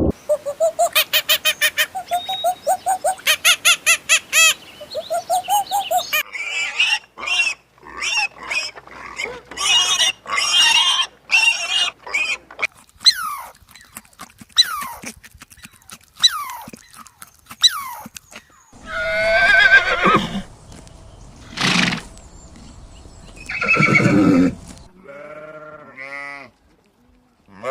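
Farm animal calls: short clips of different animals cut one after another, changing abruptly several times. Near the end comes repeated bleating.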